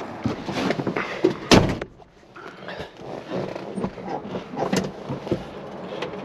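A car door shutting with one sharp thud about one and a half seconds in, amid rustling and clattering as someone settles into the driver's seat of a 1968 Plymouth Fury.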